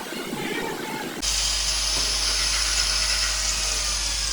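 A workshop power tool running with a steady high hiss and a faint whine that slowly drops in pitch near the end. It cuts in abruptly about a second in.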